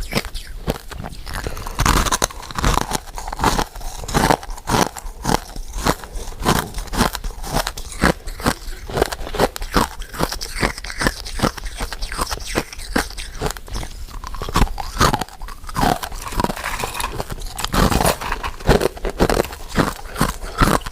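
Close-miked eating of powder-coated mint sweets: biting and chewing with a dense, irregular run of sharp crunchy and sticky clicks, several a second.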